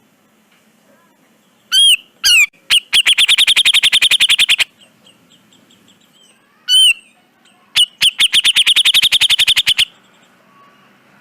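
Cucak jenggot (grey-cheeked bulbul) calling loudly. It gives a couple of sharp arched notes, then a fast rattling run of about nine notes a second, and repeats the pattern once.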